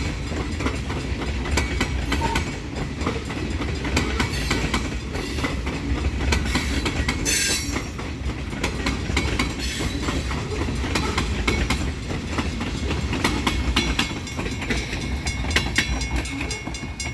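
Great Lakes Central Railroad train rolling past, its wheels clacking over the rail joints over a steady rumble, with a brief high squeal about seven seconds in.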